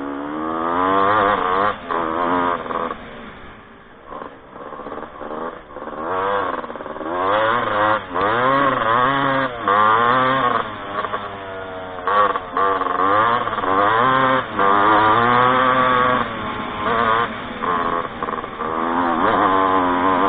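Off-road motorcycle engine revving up and down over and over, its pitch climbing and falling again and again with brief drops in between as the throttle opens and closes.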